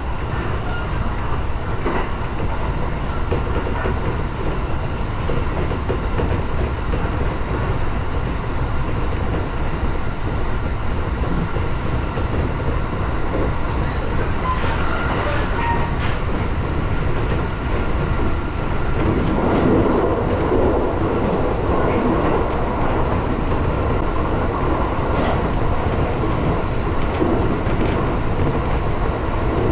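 701-series electric train running along the line, heard from inside the driver's cab: a steady rumble of wheels on rail with a few scattered clicks over rail joints. The running noise grows somewhat louder about two-thirds of the way through.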